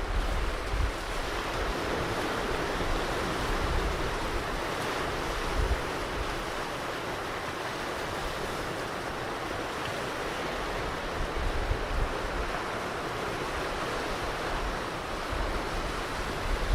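Ocean surf washing steadily on a beach, a continuous hiss of breaking waves, with a few brief low gusts of wind buffeting the microphone.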